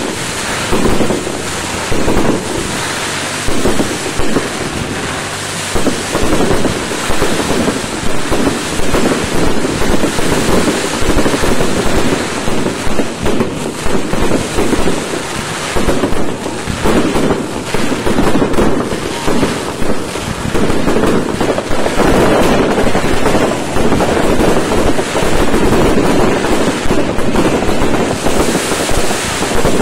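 Fireworks display barrage: many shells and crackling stars bursting together, heard as a loud, continuous rush of bangs and crackle with no gaps.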